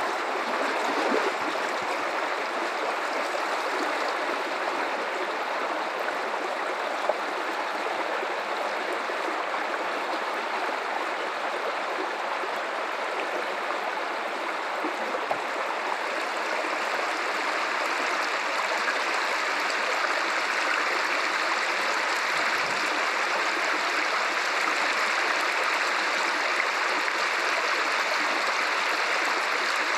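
Guadalupe River water flowing steadily, a continuous even rush of a stream with no breaks.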